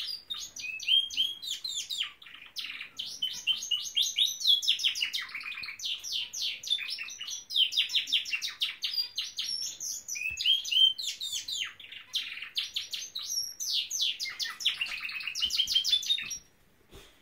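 Norwich canary singing a long, continuous song of rapid trills and chirps that stops suddenly near the end.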